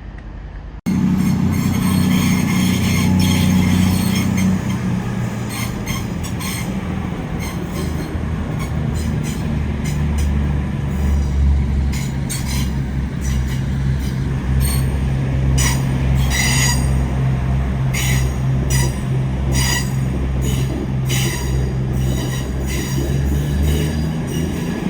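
A train running slowly at a station platform: a steady low engine drone, with repeated short, high wheel squeals and clanks. It starts abruptly about a second in.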